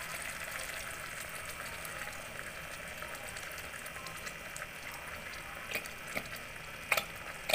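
Sardines in tomato sauce with sliced onions sizzling steadily in a hot pot. Near the end come a few sharp metallic taps as the sardine can is knocked against the pot to empty it.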